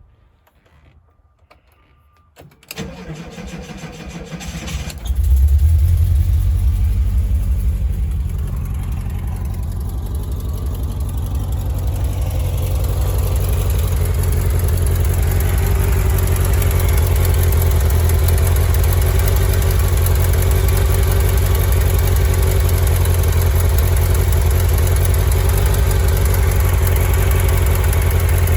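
A 1983 Volkswagen Vanagon's engine is cranked by the starter for about two seconds and catches about five seconds in with a brief loud surge. It then settles into a steady idle.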